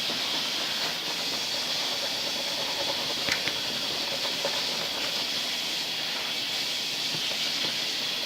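A steady hiss, with a faint click or two about three seconds in.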